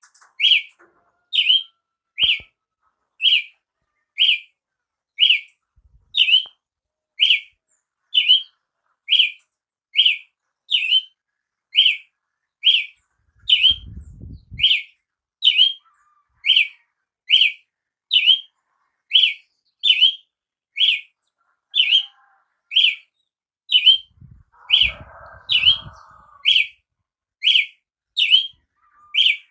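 Brazilian tanager (tiê-sangue) calling: a short, sharp note repeated very evenly, a little more than once a second. A faint low rumble comes about halfway through and a faint muffled rustle near the end.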